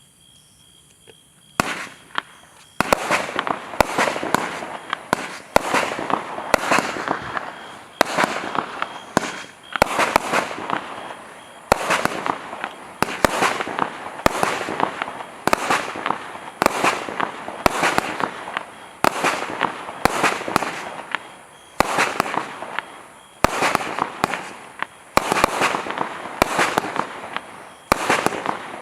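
Celtic Fireworks 'Sunset Lights' firework cake firing, starting about a second and a half in. Shots come about once a second, each followed by a burst of crackling.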